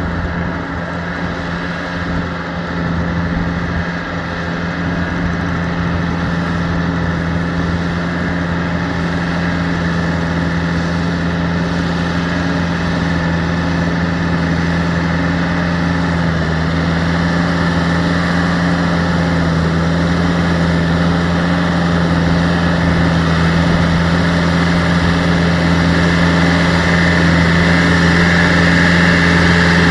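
Yanmar EF725T tractor's diesel engine running steadily at low speed, growing slightly louder toward the end.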